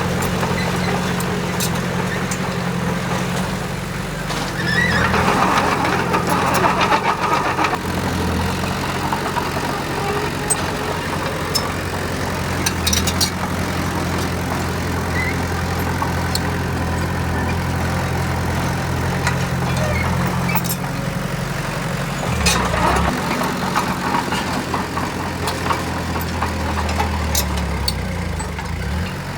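Heavy diesel engine of earthmoving machinery running steadily, with louder surges about five seconds in and again a little past twenty seconds.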